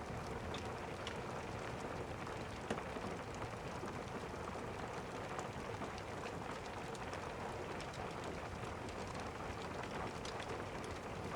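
Steady rain, with many scattered sharp ticks and pops throughout and one slightly louder tick about two and a half seconds in.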